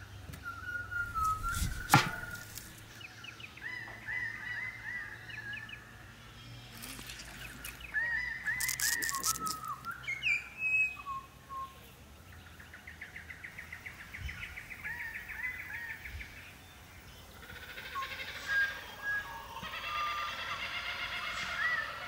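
Birds calling repeatedly in short arching notes and trills. A sharp knock comes about two seconds in, and a brief clatter of noisy strokes follows around seven to ten seconds in.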